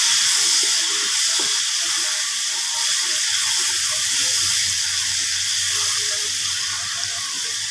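Ground chilli spice paste (bumbu) sizzling in hot oil in a wok: a steady frying hiss that eases off slightly.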